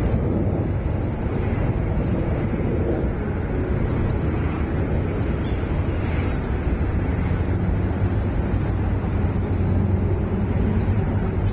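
Steady low rumbling outdoor background noise, strongest in the bass, with no distinct calls or knocks standing out.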